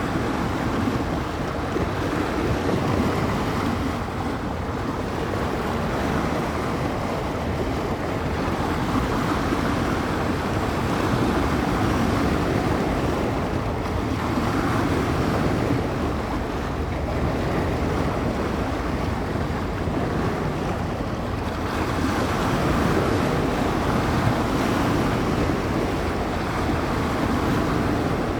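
Small bay waves breaking and washing on the shore in a steady, rushing wash that swells and eases every few seconds, with wind rumbling on the microphone.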